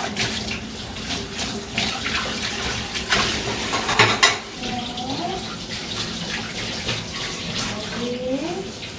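Water running from a tap into a sink, with splashing and a louder splash about four seconds in.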